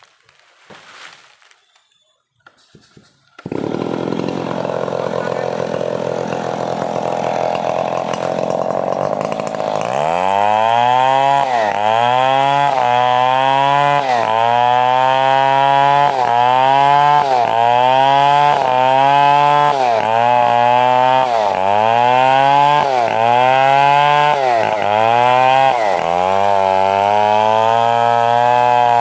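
Stihl 070 two-stroke chainsaw engine starts abruptly about three seconds in and runs steadily. From about ten seconds its engine speed dips and recovers roughly once a second, the saw loading and unloading as it works through coconut wood.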